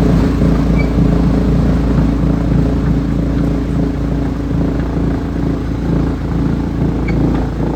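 Large engine of a wood chipper running steadily at a constant speed, with a low hum and a light clatter over it.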